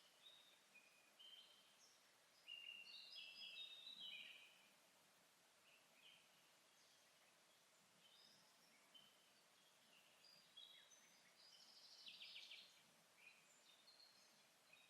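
Faint forest birdsong: several birds giving short high chirps and phrases over a quiet background, with a louder run of song a few seconds in and a quick trill about twelve seconds in.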